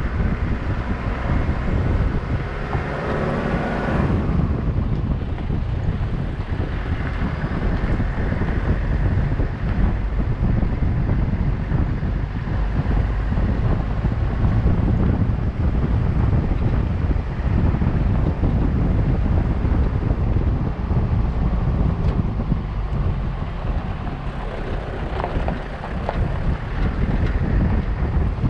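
Wind buffeting the microphone: a loud, uneven low rumble that runs without a break.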